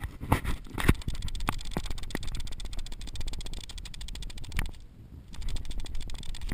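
A fast, even rattle picked up through a GoPro Hero 2 in its housing, with a few louder knocks. It is the unwanted rattling noise on the new camera's sound track.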